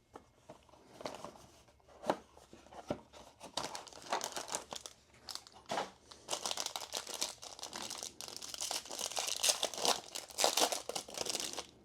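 Plastic wrap on a trading card box being torn open and crumpled, a crinkling and tearing that comes in irregular runs and gets louder and busier in the second half.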